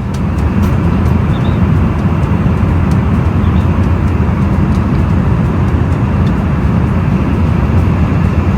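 Steady engine and airflow noise inside a passenger jet's cabin, heavy in the low end and unbroken throughout.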